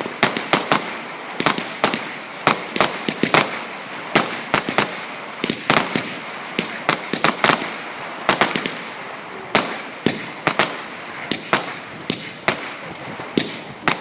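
Fireworks exploding in quick succession: sharp bangs several times a second at irregular intervals, over a continuous noisy background.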